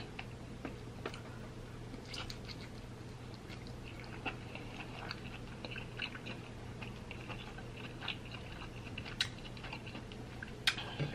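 A person chewing a mouthful of butter-dipped king crab meat: faint, soft wet mouth sounds with scattered small clicks.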